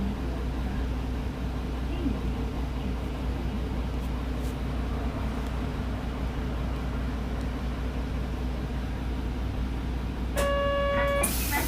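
Route bus running steadily, heard from inside the cabin as a constant low engine rumble. Near the end comes a short pitched tone lasting under a second, then a loud hiss.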